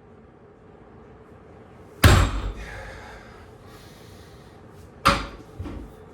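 Two heavy thuds about three seconds apart, the first the loudest, each dying away over about a second, with a smaller knock just after the second.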